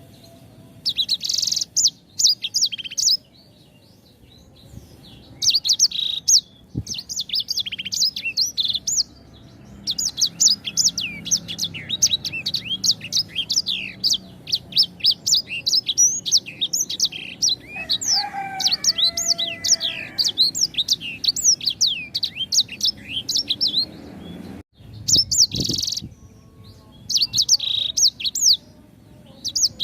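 A sanger songbird singing in fast bursts of high, sharply falling chirps. After short broken phrases it breaks into a long unbroken run from about ten seconds in to about twenty-four seconds in. A lower, pitched call sounds briefly under the song about eighteen seconds in.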